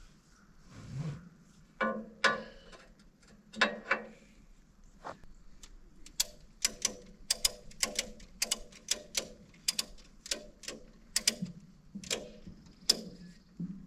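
Ratchet strap being cranked tight: a run of sharp ratchet clicks, about two a second, starting about six seconds in, after a few louder knocks and rattles.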